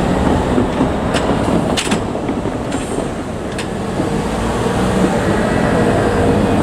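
JR Kyushu 787-series electric train running past at close range: a steady rumble of wheels on rail, with a few sharp clicks in the first four seconds.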